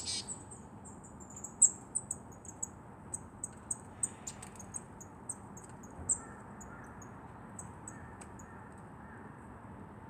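Marsh tits giving a run of short, very high, thin call notes, irregular and several to a second, thinning out after about six seconds.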